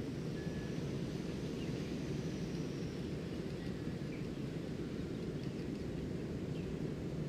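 Outdoor nature ambience: a steady low rumbling background with a few faint, scattered bird chirps.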